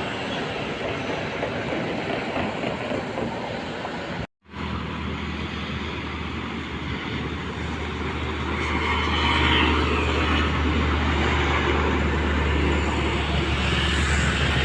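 Heavy road traffic, with large vehicles passing close by. About four seconds in there is a brief break, after which a steady low engine drone sets in and grows louder as a vehicle comes near.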